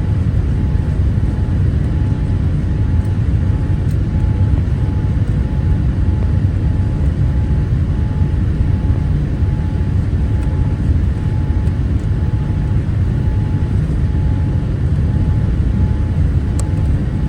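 Boeing 787-8 airliner cabin noise: a steady, loud low rumble of engines and airflow heard from an economy seat during the descent into landing, with a faint pulsing tone above it.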